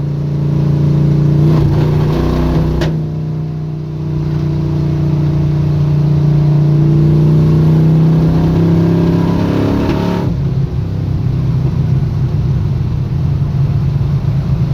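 Squarebody Chevy drag truck's engine running steadily while the truck is driven, a loud drone that builds a few seconds in and turns rougher about ten seconds in.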